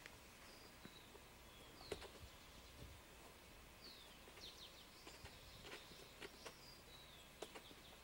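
Near silence with small birds chirping faintly now and then in short high notes, some sliding down in pitch, and a few soft taps.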